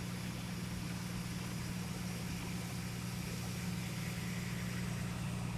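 Engine running steadily at idle, a constant low hum with no change in speed.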